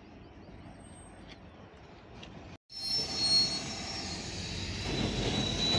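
Goods train of covered wagons on the line: a faint steady background, then, after a sudden break about two and a half seconds in, a louder rumble of the wagons with high steady wheel squeal that grows louder near the end.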